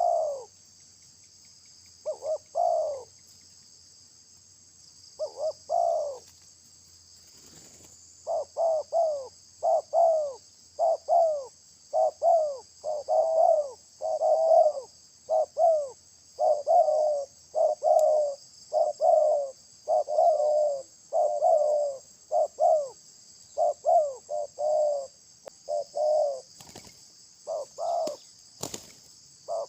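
Dove cooing: short, downward-arching coos in quick groups of two or three, repeated over and over, sparse at first and almost continuous from about eight seconds in. A steady high insect buzz sounds throughout, and two sharp knocks come near the end.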